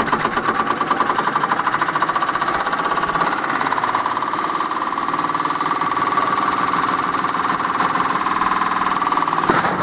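Candy washing machine running hard with a rapid, even mechanical knocking over a steady whine.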